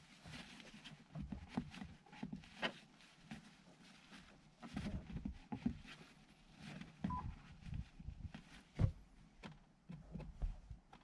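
Scattered light clicks and knocks, like parts being handled, with a short beep about seven seconds in.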